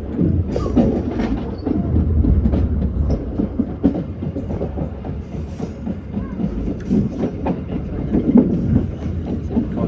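Passenger train running along the track: a steady low rumble from the wheels and running gear, with frequent irregular clicks and clatters as the wheels pass over rail joints.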